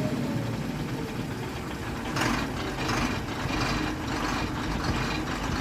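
Heavy diesel truck engine running steadily, with a few brief louder rushes from about two seconds in.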